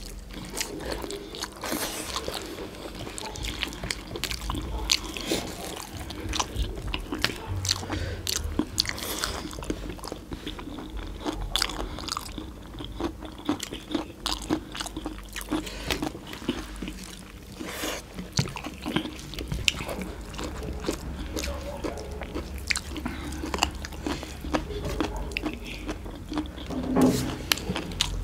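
Close-up eating sounds of two people chewing mutton and curry-soaked rice eaten by hand, with many quick wet mouth clicks and smacks.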